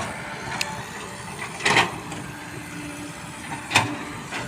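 Toys being handled: three short knocks and clatters over a steady background hiss, the loudest about a second and a half in.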